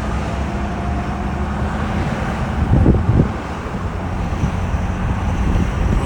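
A car driving along a road: the steady low rumble of engine and tyres, with two quick low thumps close together about three seconds in.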